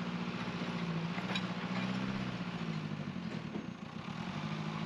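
Backhoe loader's diesel engine running steadily while it works the front bucket spreading earth.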